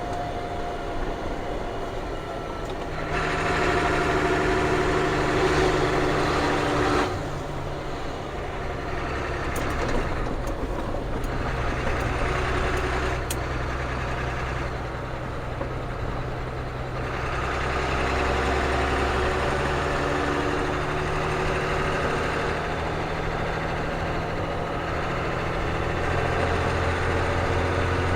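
Ford CF7000's 6.6-litre Brazil diesel engine running while the truck is driven. The engine grows louder for a few seconds, then drops back abruptly, and rises and falls again after that.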